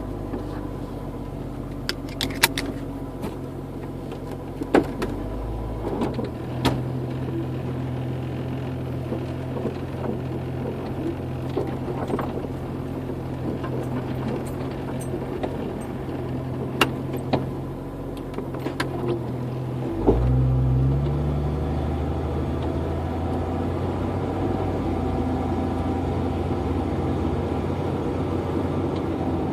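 A 1992 Jeep Cherokee's 4.0-litre inline-six exhaust, with a 2.5-inch pipe and Thrush Turbo muffler, heard from inside the cabin: a steady low drone whose note changes about six seconds in and again, louder, about twenty seconds in. Light clicks and rattles come and go over it.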